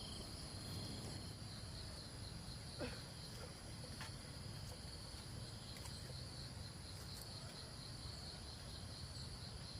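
Insects chirring steadily in a high-pitched, continuous chorus, with a faint single knock about three seconds in.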